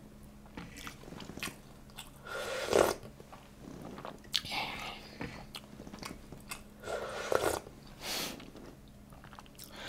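A person eating close to the microphone: chewing and mouth sounds in a few short bursts with quiet between them.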